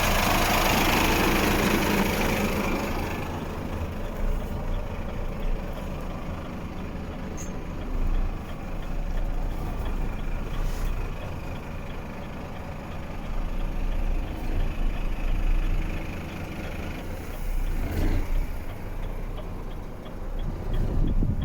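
Renault T 380 truck's diesel engine running with a steady low drone, rising and falling in level at times. A loud hiss in the first few seconds fades away.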